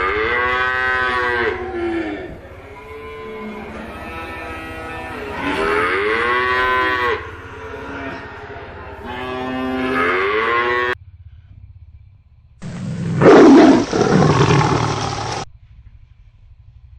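Cow mooing three times in long, drawn-out calls, then a loud animal roar about 13 seconds in lasting nearly three seconds.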